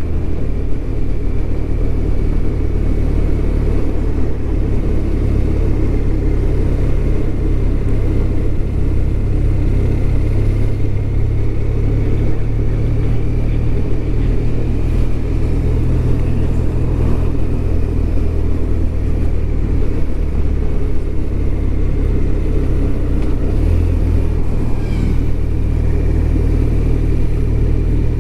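BMW R1200RT's boxer-twin engine running steadily as the motorcycle rides along, mixed with low rumbling wind and road noise and a faint steady high whine.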